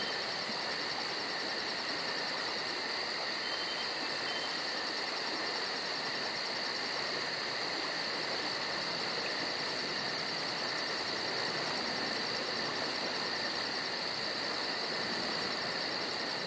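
Insects chirping steadily in a rapid high-pitched pulse, about six pulses a second, with a brief pause about five seconds in, over a steady outdoor hiss.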